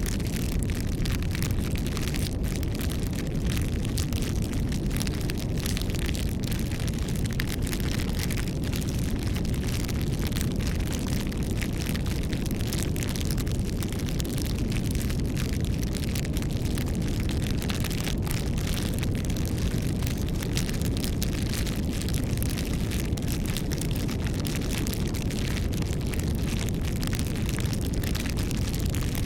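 Wood fire (campfire) burning: a steady low rush of flame with frequent small crackles and pops scattered throughout.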